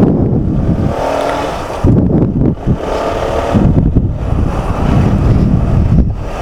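Honda CBR150R single-cylinder motorcycle underway, its engine running under heavy wind buffeting on the microphone.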